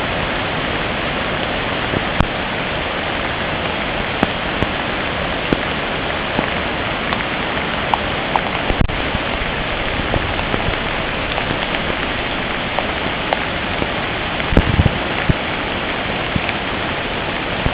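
Steady heavy rain falling, with scattered sharp taps of single drops striking close by. About fourteen and a half seconds in, there is a short cluster of louder low thuds.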